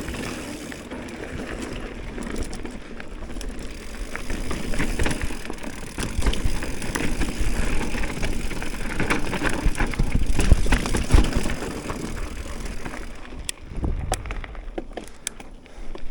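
Mountain bike riding a dirt trail: tyres crunching over loose ground, with many short knocks and rattles over bumps and a low rumble of wind on the microphone. It gets louder and rougher about halfway through.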